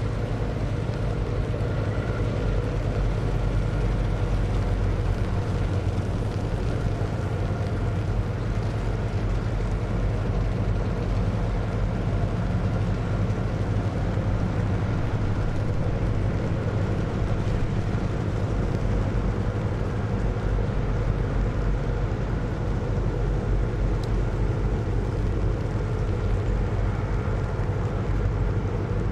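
Steady diesel engine drone of a river sand-carrying boat, running at a constant speed with a low hum.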